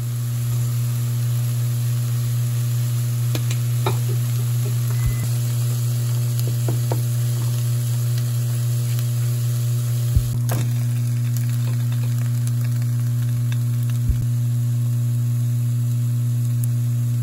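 Shredded green onion and eggs sizzling in oil in a frying pan, with a few sharp knocks of a wooden spatula against the pan. A steady low hum runs underneath.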